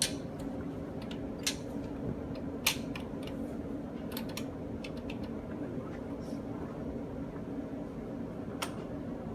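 A steady low hum of indoor room tone, with a few short sharp clicks scattered through it, the loudest about a second and a half and just under three seconds in.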